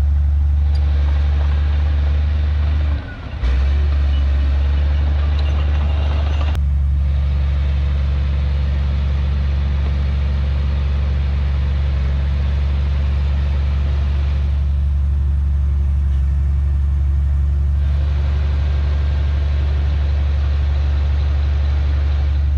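Heavy diesel engine of earthmoving machinery running steadily with a deep, even hum, dropping out briefly for about half a second around three seconds in.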